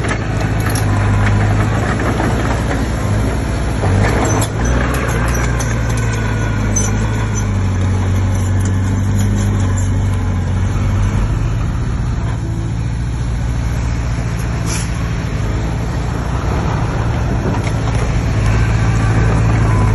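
Komatsu D20P bulldozer's diesel engine running steadily under working load, its pitch shifting a little, with a couple of sharp knocks.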